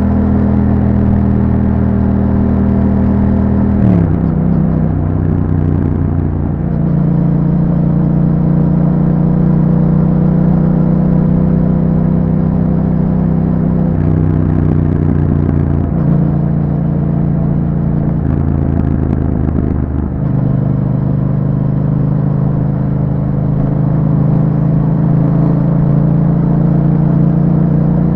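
2021 Yamaha MT-07's parallel-twin engine running through an Akrapovic exhaust while riding. The engine note holds steady and steps to new pitches several times, dropping sharply about four seconds in and again about twenty seconds in.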